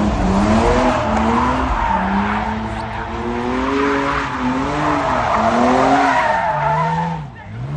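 A car spinning its tyres with a loud tyre squeal while the engine revs up and down repeatedly. Near the end the revs drop and the squeal eases off.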